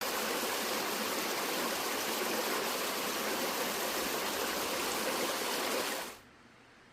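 Mountain stream rushing over rocks, a steady full rush of water that cuts off abruptly about six seconds in.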